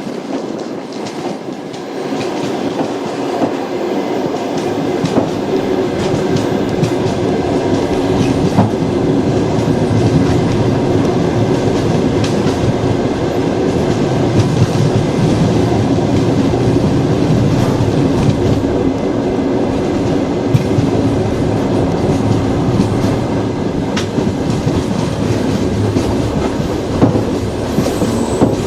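Train wheels running on the rails: a steady rumble with scattered clicks. It builds up over the first ten seconds or so, then holds.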